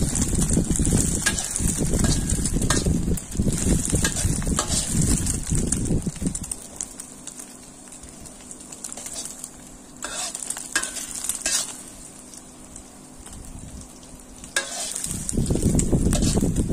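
Egg omelet frying in hot oil in a wok, a steady sizzle, with a metal spatula now and then scraping and clicking against the wok. A low rumble under the sizzle drops away about six seconds in and comes back near the end.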